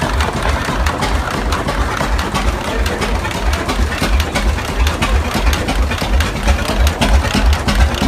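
A large engine running steadily at a slow idle, with a regular low beat and sharp clicks in time with it.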